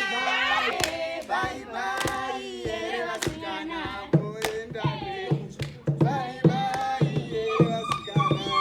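People singing together with hand claps cutting through the singing.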